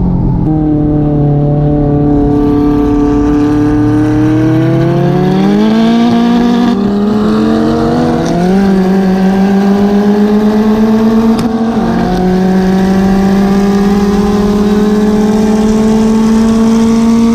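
Big-turbo Volkswagen Jetta's engine heard from inside the cabin during a roll race: cruising steadily for a few seconds, then accelerating hard with gear changes about six and eight and a half seconds in, then pulling in a higher gear with slowly rising pitch.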